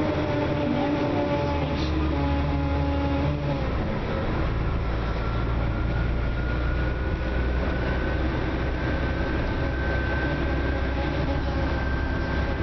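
Dennis Trident double-decker bus heard from on board, its engine and drivetrain running under way. About three and a half seconds in the note changes, as at a gear change, and then a high whine climbs slowly as the bus picks up speed.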